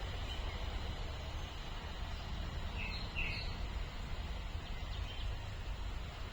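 Steady low background rumble with a few short bird chirps, a pair of them about three seconds in and fainter ones near five seconds.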